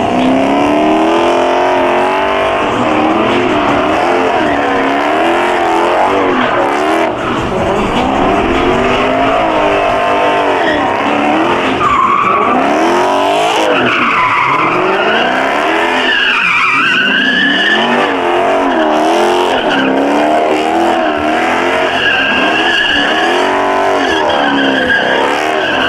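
A V8 muscle car revving hard, its pitch swinging up and down again and again, with tires squealing and skidding in a burnout. From about halfway in, high tire squeal rises above the engine.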